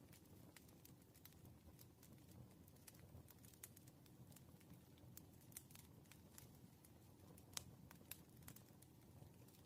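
Quiet wood fire crackling: irregular sharp snaps and pops of burning firewood over a low, steady rumble of the flames, with a louder pop about three quarters of the way through.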